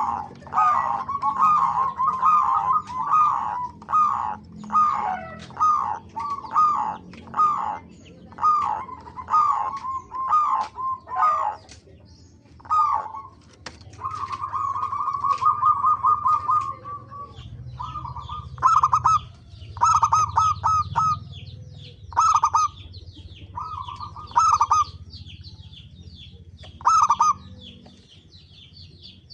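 Zebra doves cooing: quick stuttering coo phrases about once a second, one longer rolling trill about halfway through, then spaced-out phrases. Higher, thinner chirping from small birds runs alongside in the second half.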